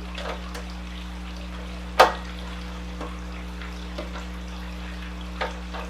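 Hand tools at work on a mini bike's drive and chain: one sharp loud click about two seconds in and a few faint ticks, over a steady low hum.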